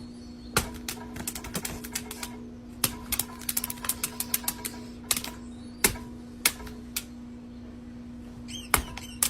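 Sharp clicks and taps at an uneven pace, with a quick run of them about three to four seconds in, over a steady hum.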